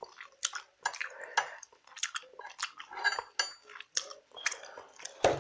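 Metal cutlery clinking and scraping against a dish in a run of irregular sharp clicks, with a heavier knock near the end.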